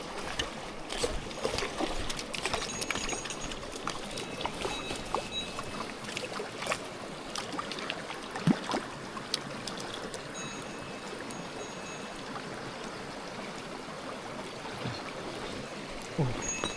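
Mountain stream water rushing and splashing steadily, with many sharp splashes and ticks in the first half; faint thin high tones come in from about halfway.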